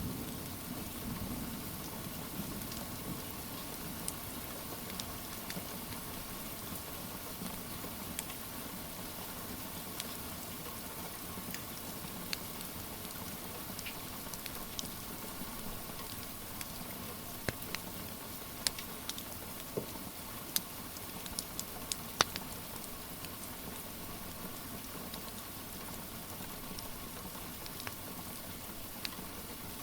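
Steady rain patter with the scattered sharp pops and crackles of a wood fire, which come most thickly a little past the middle. A low rumble dies away in the first couple of seconds.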